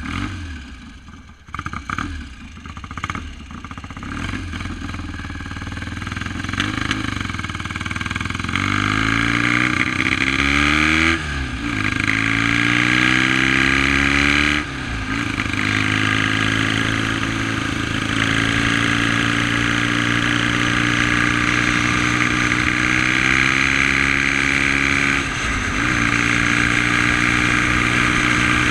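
1971 BSA Lightning's 650 cc parallel-twin engine, running unevenly with a few short throttle blips at first. Then it accelerates with rising pitch, drops pitch at two upshifts, and settles into a steady cruise.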